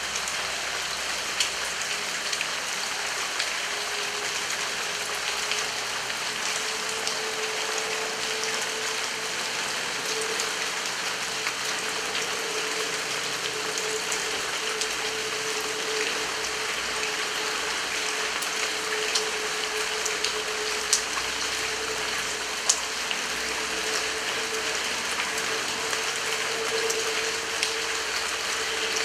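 Heavy rain falling steadily, with occasional sharp drips standing out. A steady low hum joins about four seconds in.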